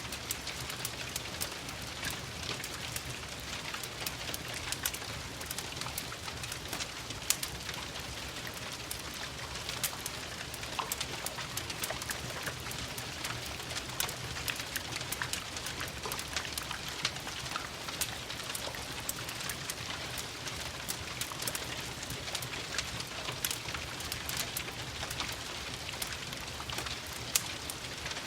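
Steady rain with a crackling fireplace: an even hiss of rain, dense with many short, irregular crackles and taps.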